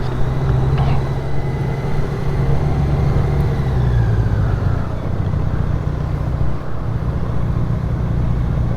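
Honda Gold Wing's flat-six engine running at speed under steady wind and road noise, the engine note dropping slightly about four seconds in.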